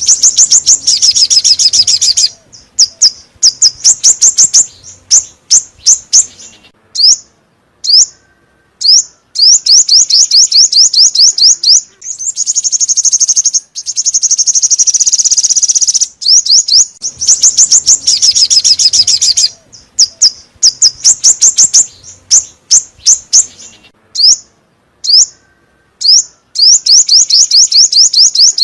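Recorded song of a small songbird, the 'five-coloured bird' played as a trapping lure: bursts of fast, high trills of repeated short notes with brief pauses between them. The same phrases come round again about every seventeen seconds, as a looped recording would.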